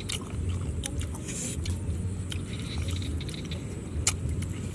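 Fried snake being bitten and chewed: a run of small crunchy clicks, with one sharp crunch about four seconds in, over a steady low rumble.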